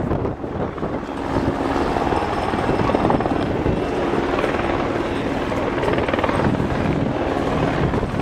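Helicopter running close by, a steady rapid rotor beat with engine tones, getting louder about a second in.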